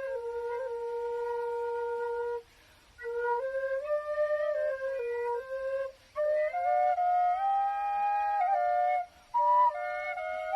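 B♭ quenas (Andean notched end-blown flutes, one of grenadilla and one of Honduran rosewood) playing a slow folk melody in phrases, with short breath pauses about two and a half, six and nine seconds in.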